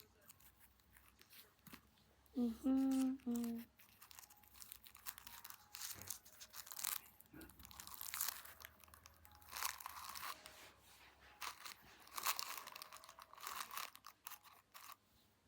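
Hands rustling and crinkling pipe cleaners and pressing Play-Doh, a run of irregular soft crackles and scrapes. A brief pitched vocal sound comes about two and a half seconds in.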